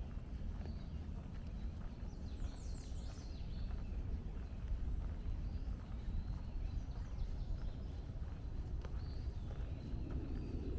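Footsteps along a woodland trail with songbirds singing: a quick run of high, falling notes about two and a half seconds in, and thin whistled calls around it, over a steady low rumble.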